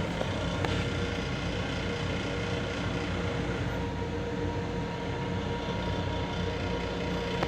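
Steady running noise inside an MTA Long Island Rail Road M7 electric railcar: a low rumble with a steady hum, and a single click under a second in.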